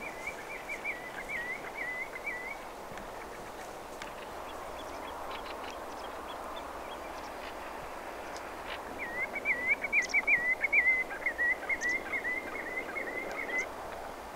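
A bird calling in two runs of quick, wavering notes held at one pitch: a short run at the start and a longer, louder one in the second half.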